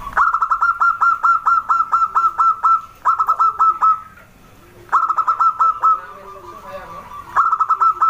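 Zebra dove (perkutut) calling: four bursts of rapid staccato notes, about five a second, with short pauses between them.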